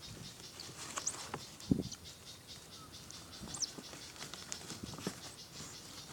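Faint rustling and soft knocks of handling, with one louder thump a little under two seconds in, over scattered short high chirps.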